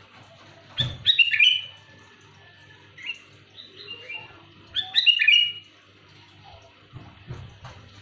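Sooty-headed bulbul calling loudly in short bursts of quick, clear, falling whistled notes, with the loudest phrases about a second in and around five seconds in.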